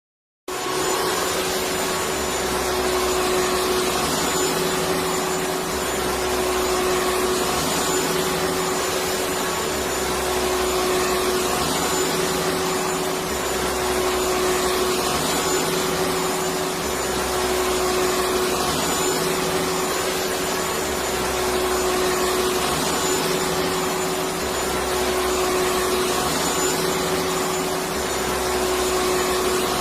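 Electric vacuum cleaner running steadily, an even rushing noise with a constant hum, starting about half a second in.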